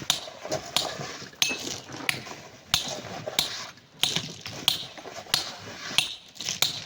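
Metal hand tools striking rock and hard-packed sand with sharp, clinking blows, about ten in a row at a steady pace of roughly one every two-thirds of a second.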